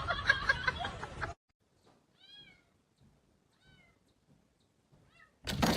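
Cat meowing three times, soft short meows that rise and fall in pitch, about a second and a half apart. They follow a louder, noisy stretch that cuts off abruptly about a second in.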